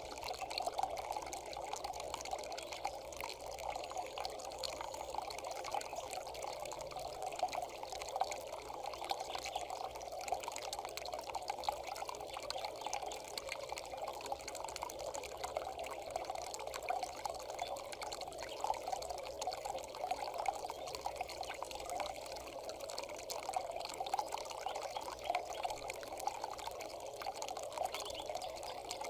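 Steady trickling, pouring water sound, continuous throughout.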